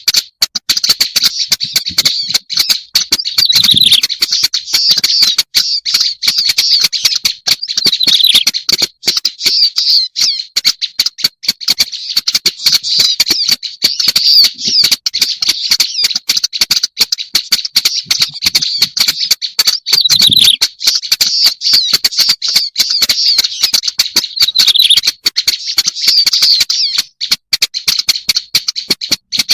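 Black-browed reed warbler song played as a bird-lure call: a fast, unbroken chatter of high notes, with a downward-sliding note now and then.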